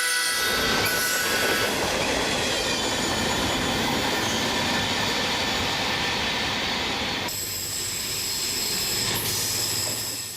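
Train running on the rails: a steady rumble of wheels on track with high-pitched wheel squeal over it, the squeal shifting in pitch a couple of times.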